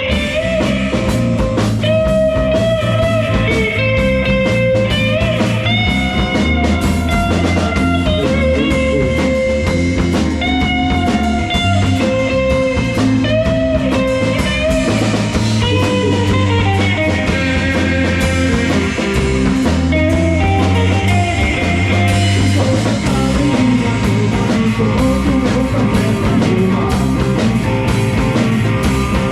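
Live rock band playing a bluesy instrumental passage: an electric guitar plays bending lead lines over bass guitar and a drum kit.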